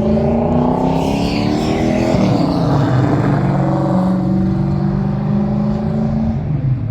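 Car engine accelerating, its pitch climbing for about two seconds, then dropping sharply and running at a steady pitch.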